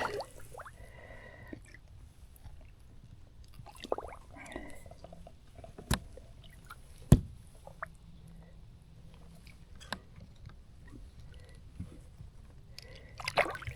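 Faint small splashes and wet clicks of water as a redfish is held in the water for release, with two sharp knocks about a second apart near the middle.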